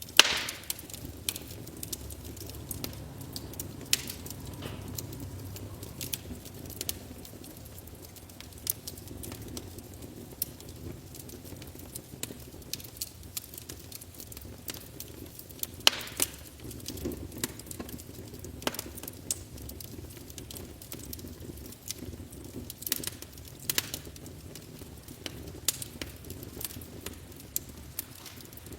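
Wood fire burning in a fireplace, crackling with irregular sharp pops over a steady low rumble; one loud pop right at the start and another about halfway through.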